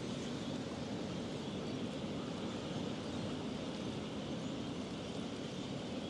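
Steady rushing of river water, an even hiss and rumble that holds level throughout.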